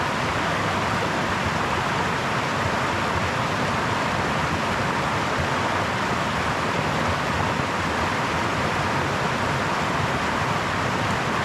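Brook water babbling over stones: a steady, even rush of running water with no breaks.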